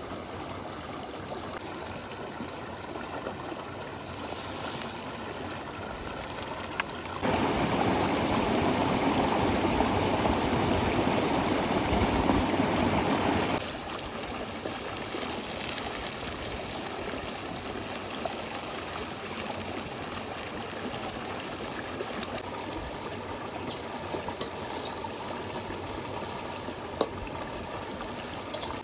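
A river flowing steadily with a continuous rushing noise. About seven seconds in it becomes much louder and deeper for roughly six seconds, then drops back abruptly.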